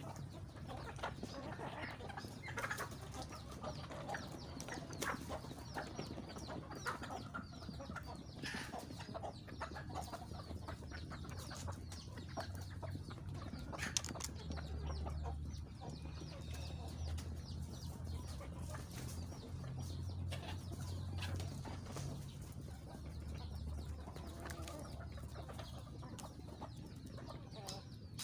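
Chickens clucking, with many short sounds scattered throughout. A low hum comes in from about twelve seconds in and fades a few seconds before the end.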